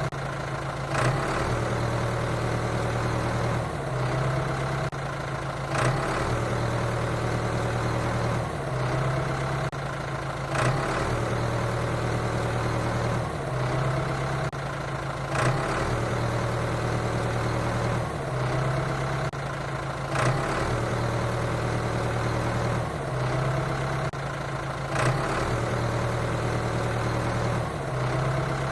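Looped engine sound effect of heavy machinery idling steadily, repeating about every five seconds with a short accent at each repeat.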